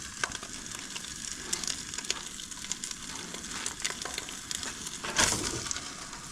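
Italian sausage frying in a warming pan: a steady sizzle dotted with small crackles, with one brief louder burst about five seconds in.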